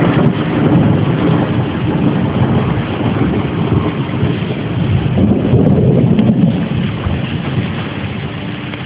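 Rolling thunder over steady rain during a thunderstorm, a deep rumble that swells about five to six seconds in and then dies away, with wind buffeting the microphone.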